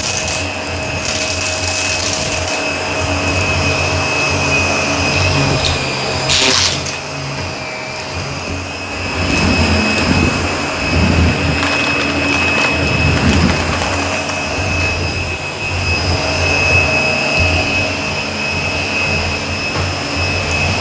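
Shark vacuum cleaner running over carpet: a steady motor whine and rush of suction, with short crackles as debris is sucked up.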